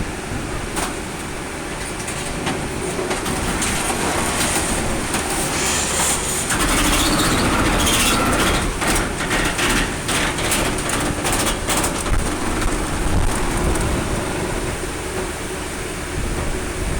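Colmar P5 260 scrap metal baler crushing a car body. The baler runs with a steady machine drone while the body's sheet metal cracks, pops and crunches in a dense run of sharp snaps. It grows louder through the middle and eases off near the end.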